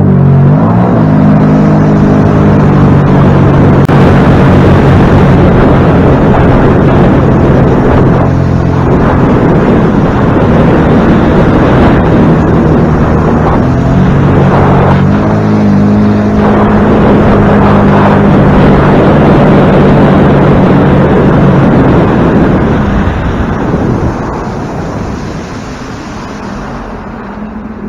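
A boat's engine is throttled up and runs hard at speed under a steady rushing noise. Its pitch shifts about halfway through, and it throttles back a few seconds before the end.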